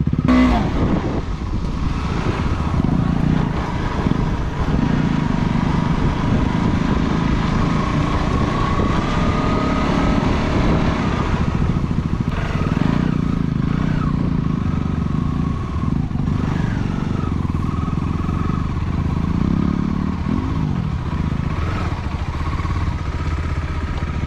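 Motorcycle engine running as it is ridden along an off-road trail, its pitch rising and falling with the throttle over a steady rumble.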